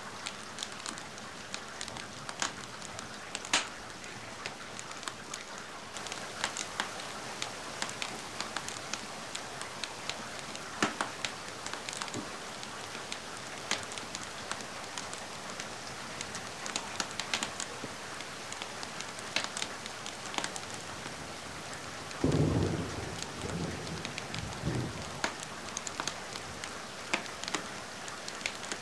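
Steady rain with scattered sharp crackles and drips from a fireplace and the rain. About three-quarters of the way through comes a low rumble lasting a few seconds, like distant thunder.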